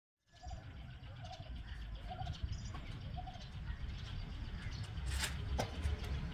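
Soft cooing bird calls, about four short notes in the first three seconds, over a low rumble, with a brief sharp rustling noise about five seconds in.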